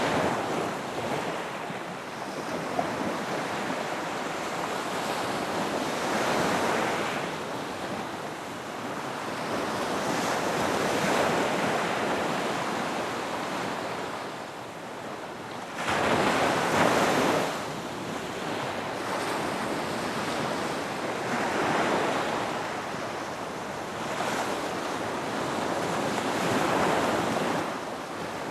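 Ocean waves breaking and washing up on a beach, surging and receding every few seconds, with the sharpest, loudest wave about halfway through. Wind buffets the microphone.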